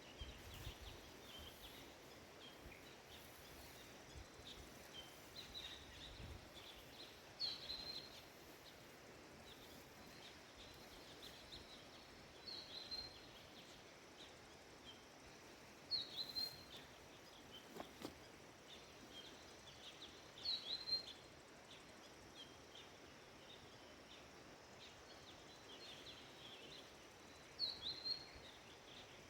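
A bird repeating a short, high chirp every few seconds, with softer twittering between, over a faint quiet background.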